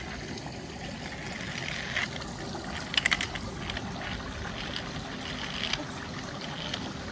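Water trickling steadily in a children's water table. About three seconds in there is a quick run of sharp clicks and clatters, as a toy vehicle runs down the plastic ramp.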